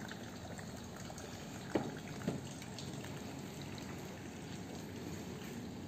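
Binter Merzy KZ200's single-cylinder four-stroke engine idling steadily, with two short sharp clicks about two seconds in.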